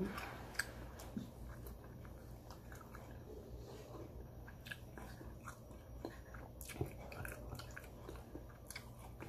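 A person chewing and biting sauce-glazed fried chicken and rice: scattered small wet clicks and smacks throughout, over a steady low hum.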